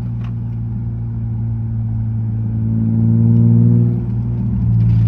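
BMW E36's engine running as the car is driven, a steady hum that builds a little louder about three seconds in, drops off briefly near four seconds, then steadies again.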